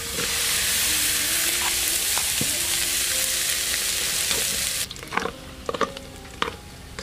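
Chopped fatty meat dropped into a hot metal pot, sizzling loudly as it starts to fry and render out its fat; the loud sizzle breaks off suddenly near five seconds in. After that, quieter frying with a wooden spoon stirring and knocking against the pot a few times.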